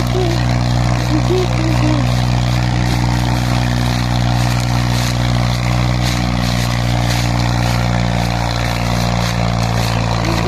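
Swaraj 735 tractor's three-cylinder diesel engine running steadily under heavy load while pulling a fully loaded trolley.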